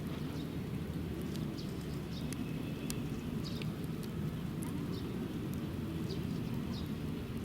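Railway train running past with a steady low rumble, with scattered short high chirps and ticks above it.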